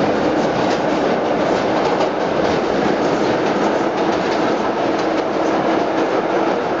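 Vintage 1930s New York City subway train running along the tracks: a steady, loud rumble with clicks of the wheels over rail joints and a faint steady hum.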